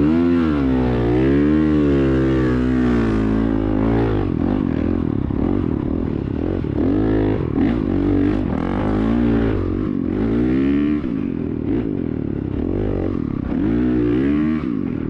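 Dirt bike engine running hard, its revs rising and falling repeatedly as the throttle is worked.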